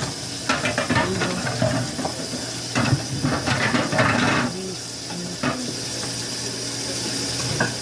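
Food containers and packages being handled while a refrigerator is cleared out: irregular clatter, knocks and rustling in a few short bursts, over a steady low hum.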